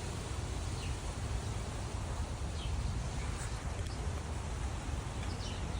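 Windstorm: steady wind rushing through trees, with a low rumble of wind on the microphone. A few faint, brief bird chirps come through.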